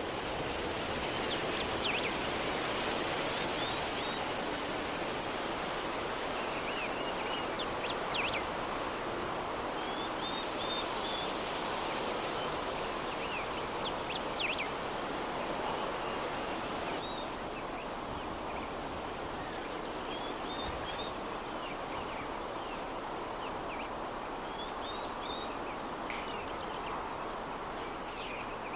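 Steady soft breeze, with small birds chirping now and then: short runs of high repeated notes and quick falling whistles every few seconds.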